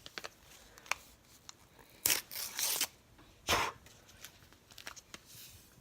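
A Kool-Aid drink-mix packet being torn open by hand: a long rip about two seconds in and a shorter one about a second later, amid light crinkling and handling clicks. The packet is only partly opened.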